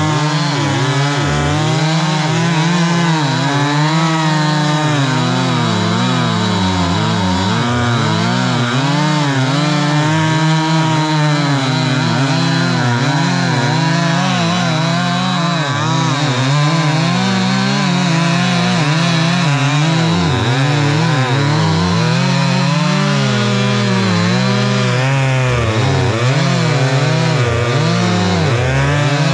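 Two-stroke chainsaw running continuously as it cuts through a log, its engine pitch repeatedly dipping and recovering as the chain loads in the wood.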